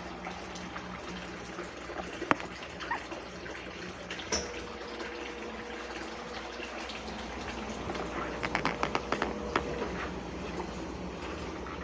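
Consul CWS 12 washing machine partway through a wash cycle, with water moving in the tub over a steady low hum. A thin steady tone starts about four seconds in and stops near ten seconds. A quick run of clicks comes just before the tone stops.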